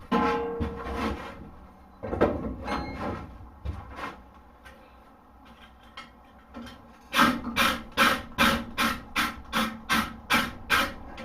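Blacksmith's hammer striking hot steel on an anvil: a few separate blows, a quieter pause, then from about seven seconds in a steady run of blows at roughly two and a half to three a second while shaping the hoof pick.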